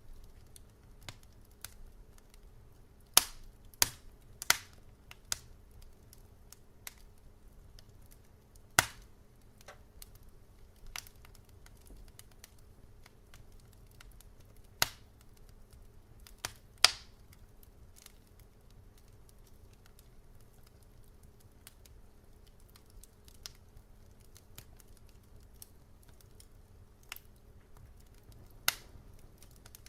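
Wood fire crackling in a fireplace: irregular sharp pops and snaps, a handful of them louder than the rest, over a faint low steady hum.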